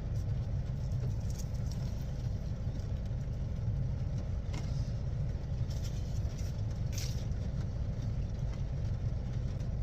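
Steady low hum of an idling car engine, with a few faint soft clicks.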